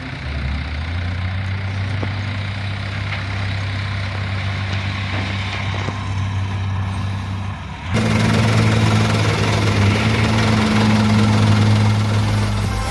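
Mitsubishi Canter HDX dump truck's diesel engine running steadily, which jumps abruptly to a louder, fuller sound about eight seconds in.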